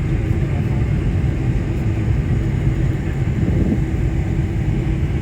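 Boeing 747-400 airliner with a steady low rumble of its engines and airframe, even throughout with no distinct changes.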